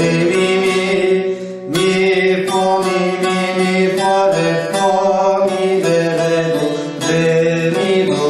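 Short-neck bağlama (kısa sap bağlama) playing a folk-tune melody in plucked notes over a steady low drone.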